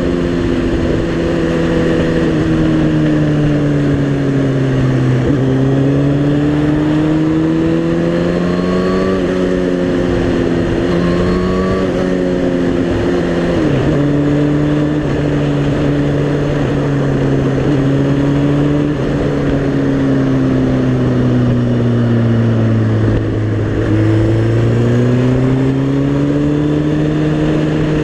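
Suzuki GSX-R motorcycle engine under way, its note rising and falling with throttle and road speed. It has several abrupt pitch steps, at about 5, 9, 14 and 23 seconds in, where gears are changed.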